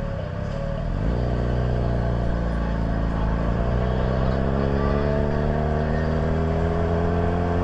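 Motor vehicle engine accelerating: its note changes about a second in, then rises steadily in pitch under load.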